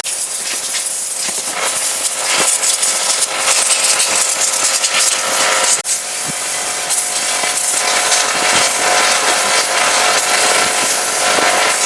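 Pressure washer jet spraying: a loud, steady hiss with a faint whine running under it, briefly cut off about six seconds in.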